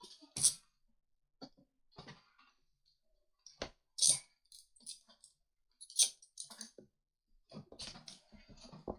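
Plastic segments of a 144-piece Rubik's Snake being twisted, clicking irregularly as they snap into place, with the sharpest clicks about half a second, four and six seconds in.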